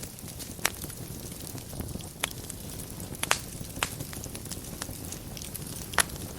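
Fire burning in a fireplace: a steady low rumble and hiss with sharp crackles and pops every second or so, the loudest pop about six seconds in.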